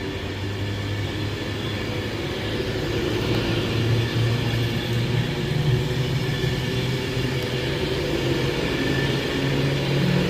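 A train running at a station platform: a steady low rumble and hum that steps up in pitch about four seconds in and again near the end, growing slowly louder.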